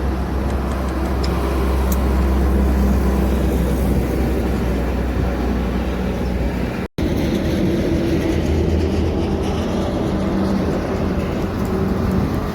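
Heavy truck engine and road noise: a steady low rumble that cuts out for an instant about seven seconds in, then carries on.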